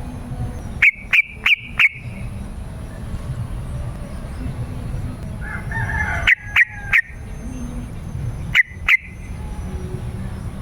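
Yellow-vented bulbul (trucukan) singing in short groups of loud, clipped notes: four at about a second in, four more after a soft warbling phrase in the middle, and two near the end.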